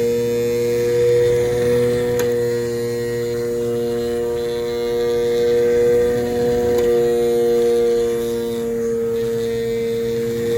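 Small battery-powered DC motor spinning a fan propeller, running at a steady speed with a constant hum.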